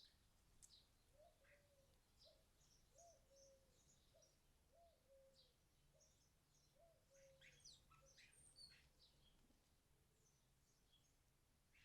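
Faint wild birdsong: many short, high chirps scattered throughout, with a run of low, repeated call notes about once a second in the first half or so.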